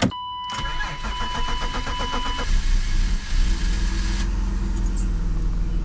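BMW E34 525i's M50 2.5-litre inline-six being started: the starter cranks rhythmically for about two seconds under a steady warning tone, then the engine catches and runs on with a little chugging, from the fuel rail having been emptied by the regulator swap.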